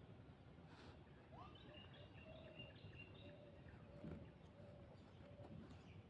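Faint outdoor background noise with soft, repeated short bird calls starting about a second and a half in.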